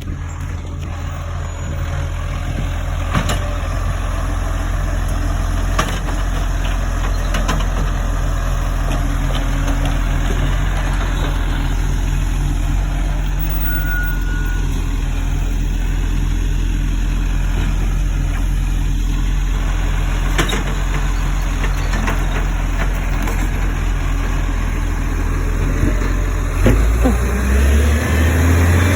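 Garbage truck's diesel engine idling steadily, with a few sharp knocks. Near the end the engine revs up.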